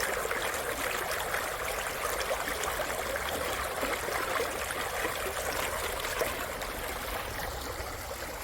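Mountain valley stream flowing steadily, an even rush of running water.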